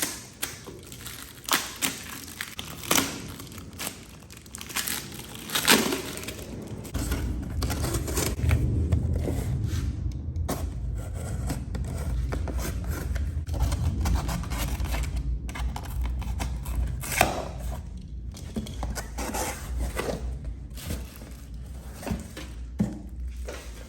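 Packaging being handled and torn open: scattered knocks and clatter with crinkling and tearing, joined about seven seconds in by a steady low rumble.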